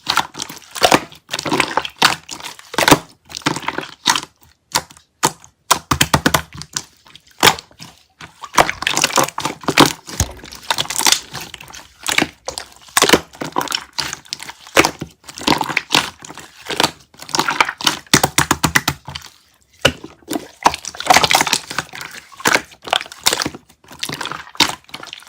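Close-miked ASMR of clear konjac jelly: dense, irregular crackling and sticky clicking in clusters with short pauses between them.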